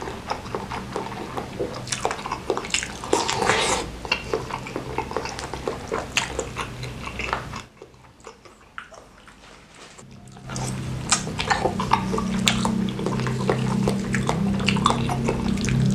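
Close-miked wet chewing, lip smacks and slurps of a person eating beef-tendon meatballs in chilli sauce. It goes quieter for a couple of seconds in the middle. Over the last few seconds a low steady hum runs under the chewing.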